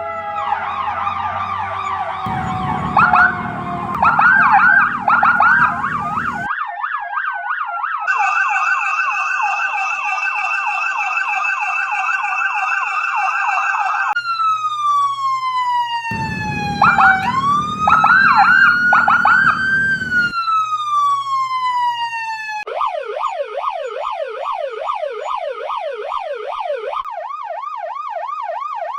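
A run of police car sirens cycling through different patterns: a falling wail, rapid yelping sweeps, a steady pitch, a slow rise and fall, then a fast warble of about three cycles a second. A low vehicle rumble lies under some of the wails.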